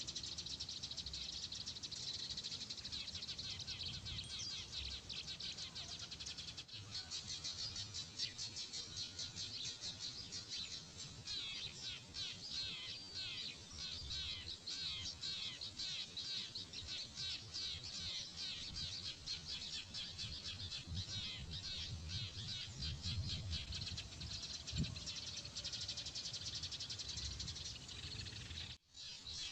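Many small birds chirping in a dense, rapid, unbroken chatter, with a brief gap near the end.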